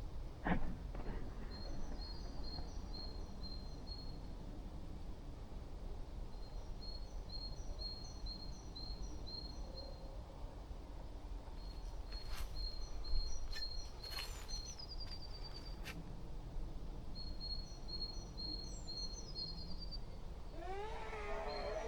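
A bird calling in phrases of short, high, evenly repeated notes, each phrase a few seconds long, over a low steady rumble. A few sharp clicks, the loudest near the start and about halfway through, and a pitched sound that bends in pitch near the end.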